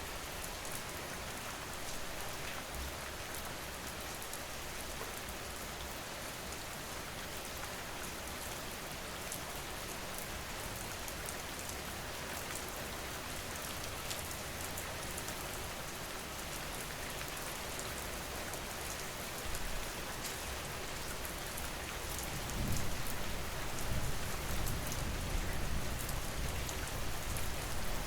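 Steady rain falling on a surface, an even hiss with scattered drops. A low rumble of distant thunder comes in about three-quarters of the way through.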